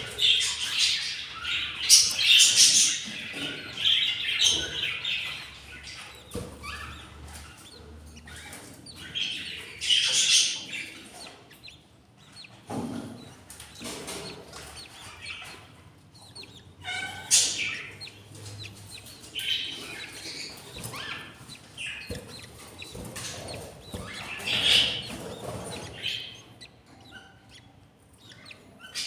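Budgerigars chirping in irregular bursts, with brief rustles and wing flutters.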